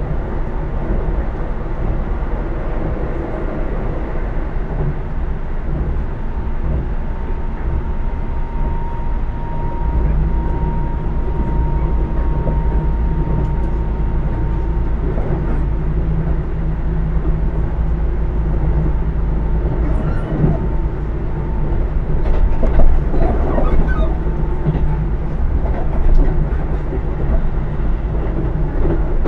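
Keisei AE100 limited-express train heard from inside the passenger car while running: a steady rumble of wheels on rail. A high, steady tone rides over it for several seconds in the first half, and scattered knocks and clicks come through in the second half.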